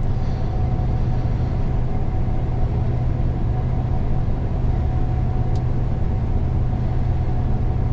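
Steady drone of a Gleaner combine heard from inside its cab during soybean harvest: an even low rumble with a faint steady whine above it, and one short tick about five and a half seconds in.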